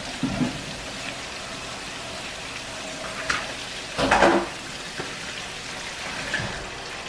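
Chicken wings frying in hot grease, a steady sizzle, with a few short knocks from the kitchen, the loudest about four seconds in.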